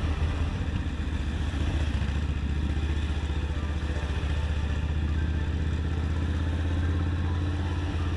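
Kawasaki Mean Streak's V-twin engine running steadily at low speed, heard from on the motorcycle.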